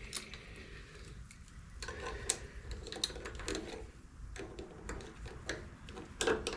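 Irregular light clicks and clinks of small metal pipe fittings being handled and tightened by hand, with a few sharper knocks near the end.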